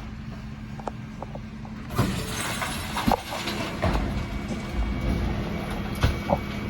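Dennis Elite 6 refuse truck running at a collection, with a steady hum at first. About two seconds in, a rattling clatter of recycling being tipped into the hopper begins, with several sharp knocks.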